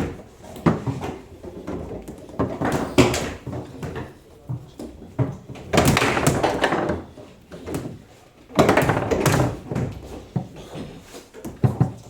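Table football in play: hard knocks of the ball against the players on the rods and the table walls, struck sharply every few seconds, with busier rattling stretches twice.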